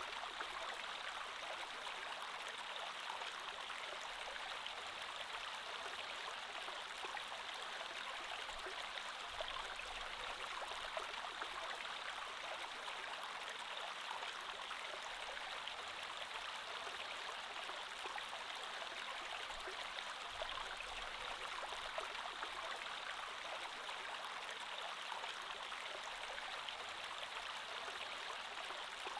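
Creek water flowing steadily, a constant rushing with light trickling and gurgling detail.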